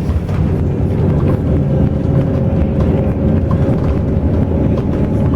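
Intercity bus running at speed, heard from inside the cabin: a steady low engine drone and road rumble.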